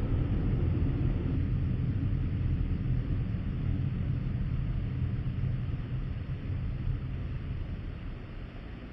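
A vehicle driving, with a steady low rumble of engine and road noise that slowly fades toward the end.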